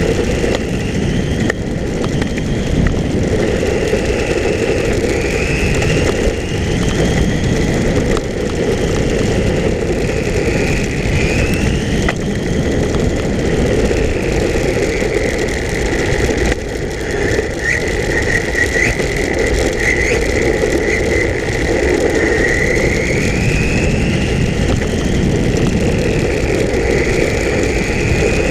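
Associated RC10L electric pan car running laps, its motor and gears whining, the pitch rising and falling over and over as it speeds up and slows, over a steady rushing noise.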